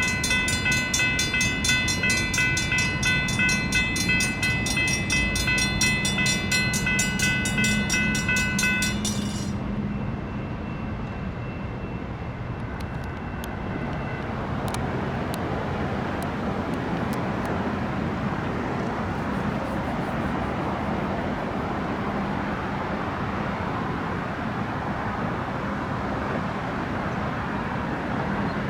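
Railroad crossing bells, a GS Type 3 electronic bell and a Safetran hybrid bell, ringing over a low train rumble, then falling silent about a third of the way in as the crossing clears. After that there is a steady broad rumble.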